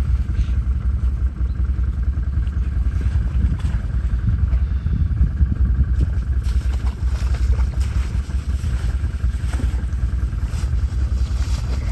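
ATV engine running with a steady low rumble while the quad tries to push through deep snow and slush.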